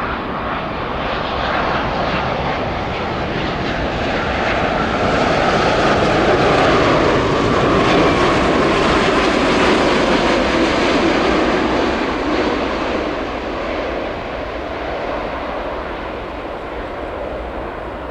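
Boeing 787-9 airliner on final approach passing close overhead. Its engine noise swells to a peak midway and then fades, with a whine that drops in pitch as it goes by.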